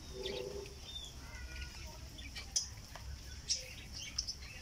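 Small birds chirping: scattered short, high chirps and a few brief gliding calls, over a steady low rumble.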